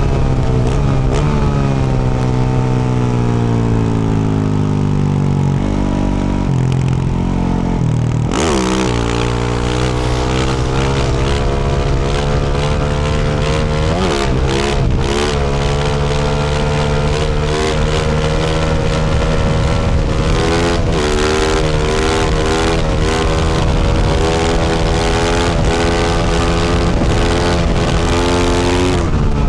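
2024 Yamaha YZ450F's 450 cc single-cylinder four-stroke engine with a Yoshimura RS-12 exhaust, ridden under way. The engine note falls steadily for the first eight seconds, then picks up sharply, blips up and down quickly around the middle, and runs fairly steadily after that.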